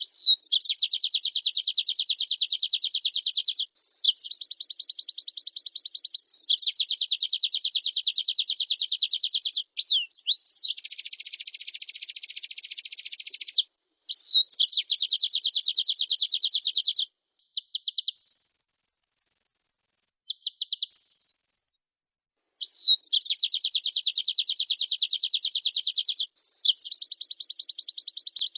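White-eye (pleci) singing in long, fast twittering trills of about three seconds each, separated by brief pauses and short rising notes. Near the middle come two shorter, much higher hiss-like bursts.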